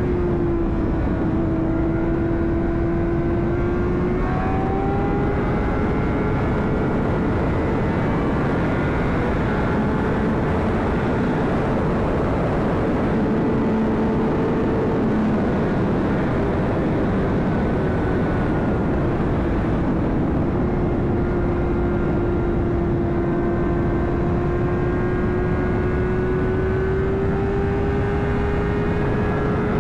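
2009 Honda CBR600RR's inline-four engine running at a steady cruise under heavy wind rush. The engine note eases down just after the start and creeps back up near the end.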